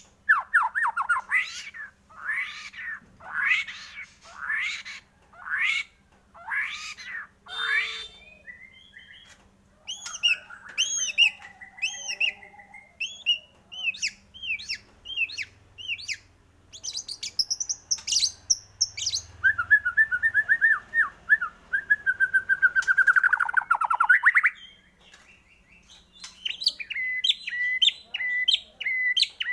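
White-rumped shama singing a varied song. It opens with a series of loud down-slurred notes about one a second, moves to quick repeated chirps, then gives a long rattling trill that ends in a downward sweep before starting again near the end.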